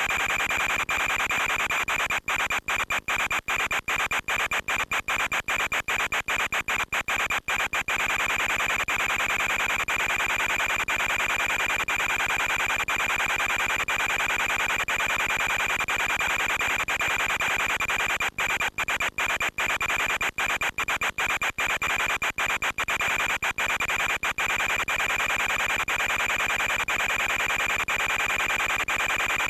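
Steady static hiss with a constant high whine, typical of the audio channel of an analog FPV video link from an RC plane. It is broken by dozens of brief dropouts in two clusters, early on and again past the middle, the kind that come with a weakening radio signal.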